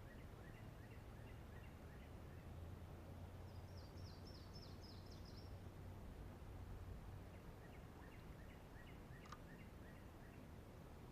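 Faint birdsong over a low steady hum. A series of short repeated notes comes at the start and again about eight seconds in, and a higher run of quick down-slurred notes comes around four seconds in.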